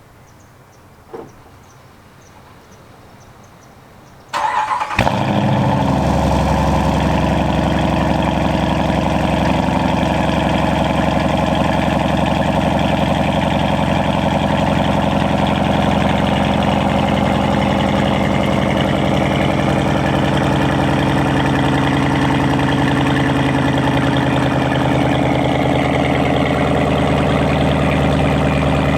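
Dodge Durango R/T's 5.7-litre Hemi V8 cold-started through an exhaust with the rear resonator deleted. A brief click about a second in, then about four seconds in the starter cranks briefly, the engine catches, and it settles into a steady idle.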